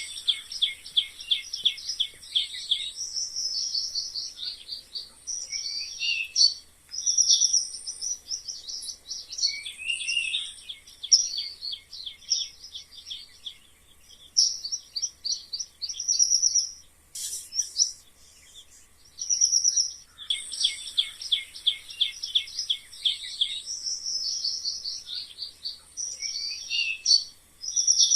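Mice squeaking: rapid runs of high-pitched squeaks and chirps with short pauses between them. The same sequence comes round again about twenty seconds later, as a looped recording.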